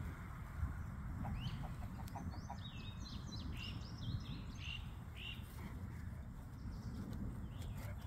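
Birds chirping, a quick run of short calls for a few seconds in the middle, over a steady low rumble.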